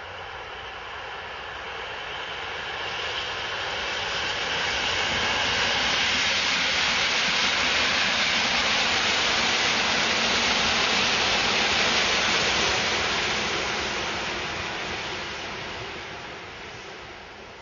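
Electric multiple-unit commuter train passing close by. Its running noise builds over the first few seconds, stays loud through the middle, and fades as the train draws away.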